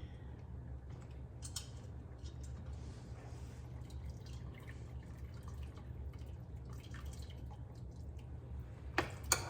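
Small wet drips and squishes as a hot pressure-cooked whole chicken is pulled apart by hand, over a steady low hum. Two sharp clicks come near the end.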